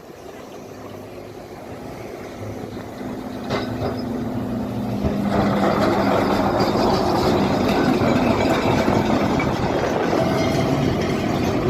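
Tram on the street track, a low steady hum at first, then from about five seconds in a much louder rushing noise as it passes close by.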